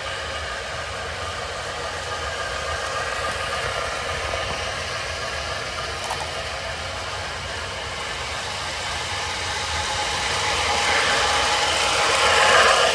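Toy model train locomotives running on their track: a steady motor whir and wheel rattle that grows louder near the end as a train nears.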